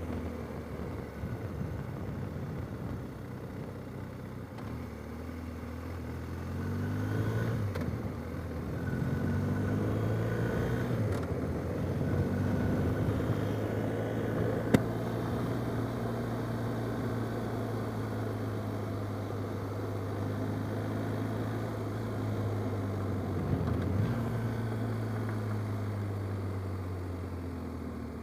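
Adventure motorcycle engine under way on a dirt road, with wind and road noise. The engine note rises twice through the gears in the first dozen seconds, then holds a steady cruising pitch, with a brief dip and pick-up about three-quarters of the way through.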